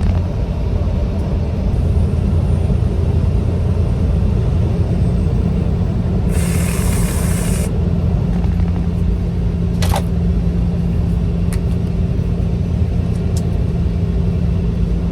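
Semi truck engine and road noise heard from inside the cab while driving: a steady low rumble with a constant hum. A hiss lasting about a second comes about six seconds in, and a sharp click near ten seconds.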